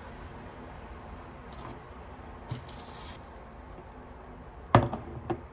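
Quiet kitchen handling sounds, with a sharp clack of something set down or knocked near the end and a lighter one just after.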